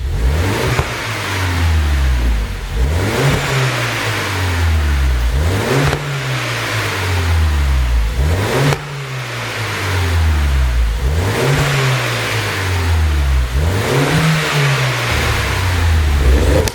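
BMW R55 Mini Clubman S 1.6-litre turbocharged four-cylinder engine free-revving, about seven blips that climb and fall back to idle. Its exhaust is tuned to pop and crackle as the revs drop.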